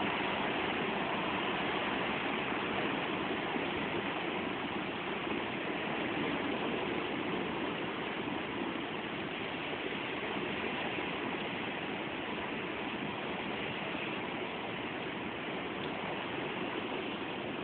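Blizzard wind blowing hard and steadily, a continuous rushing noise that eases slightly toward the end.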